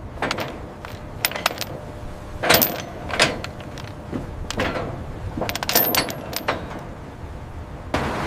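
Metal hardware clanking and clinking at irregular intervals, a dozen or so sharp knocks with the loudest about two and a half and three seconds in. Near the end a steady rushing noise sets in.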